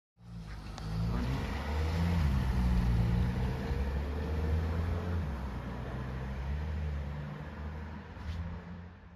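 A road vehicle's engine running nearby, its low hum wavering up and down in pitch as it accelerates, then fading somewhat. The sound cuts in and cuts off abruptly.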